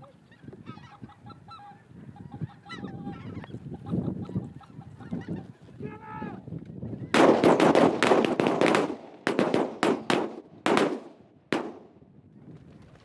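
Geese calling with honks and yelps, then about seven seconds in a volley of loud shotgun blasts from several guns close together, followed by a few scattered single shots.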